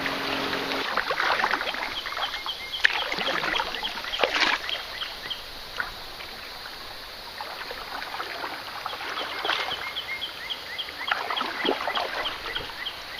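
Canoe paddle strokes splashing and dripping on the river. Over them comes a short chirping call repeated about four times a second, in two runs, one early and one late.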